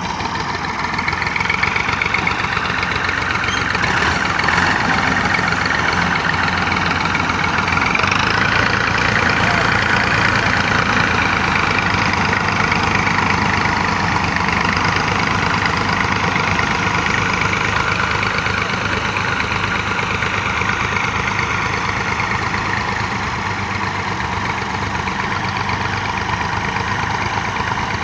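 Tractor diesel engine running steadily, with a fast, even pulse, its pitch shifting slightly a few seconds in.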